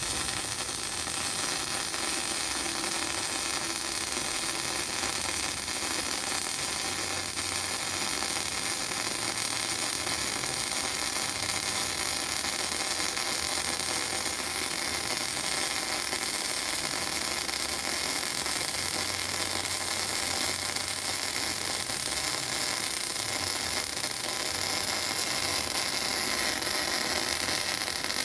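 MIG welding arc on steel pipe, a steady hiss with no breaks.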